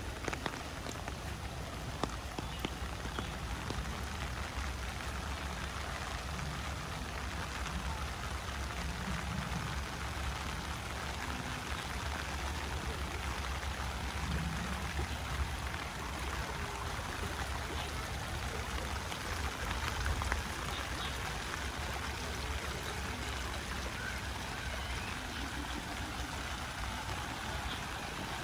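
Steady rain falling, with a small river flowing and gurgling beneath it.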